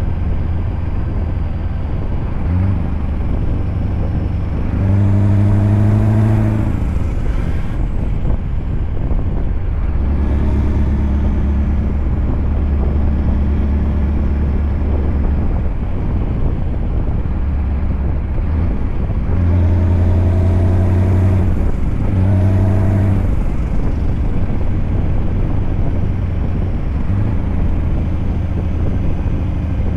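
Scania truck's V8 diesel engine running under way, a steady low drone whose pitch climbs and drops again several times, about 5 s in, around 20 s and near the end, as the engine pulls and is let off.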